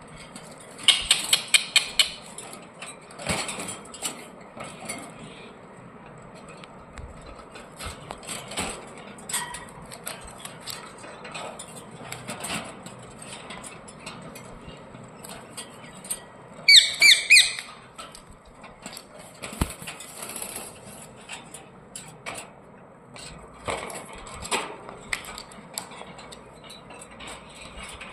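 Pet parrots: a rapid burst of clicking and fluttering about a second in, scattered taps and rustles, and a short run of shrill squawks about seventeen seconds in.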